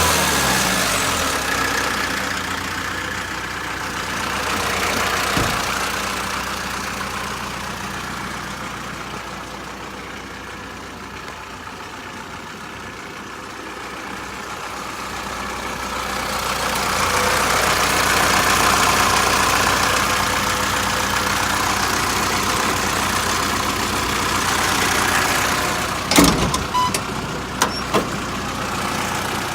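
Mitsubishi Canter truck engine idling steadily, with a few sharp knocks near the end.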